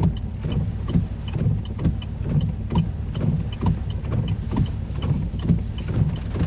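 Steady low rumble inside a stopped truck's cabin, with a regular beat of short knocks about twice a second.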